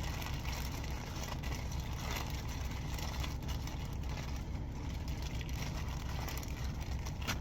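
Steady low rumble of an idling truck engine, with light rustling and handling noises over it.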